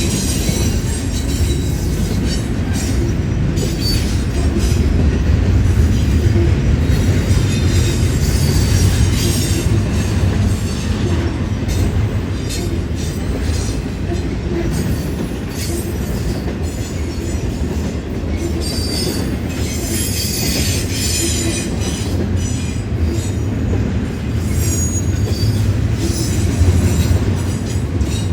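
BNSF intermodal freight train rolling past with a steady low rumble. High-pitched wheel squeal comes and goes over it, along with scattered clicks from the wheels.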